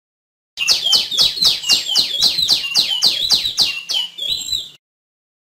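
Female tiểu my bird calling: a rapid run of about a dozen short notes, each sliding downward in pitch, about four a second. It starts and stops abruptly after about four seconds.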